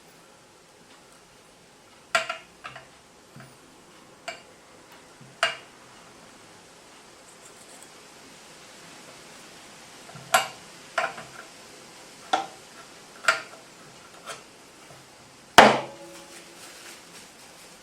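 About ten separate sharp clinks and knocks of hard objects being handled or set down, irregularly spaced, the loudest one near the end.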